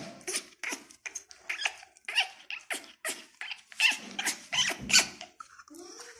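Parrot making a quick run of short, squeaky chirps and clicks, about three a second, loudest around four to five seconds in.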